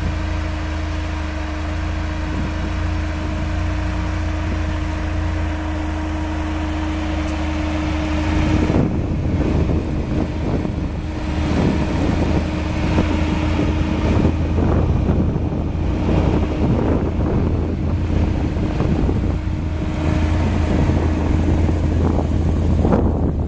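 Car engine idling steadily with an even hum. From about a third of the way in, wind buffets the microphone over it.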